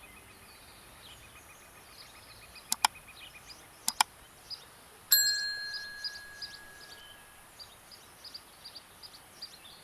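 Small birds chirping with a fast insect-like ticking, broken by two quick pairs of sharp clicks. About five seconds in comes a single bell-like ding, which rings on and fades over about two seconds.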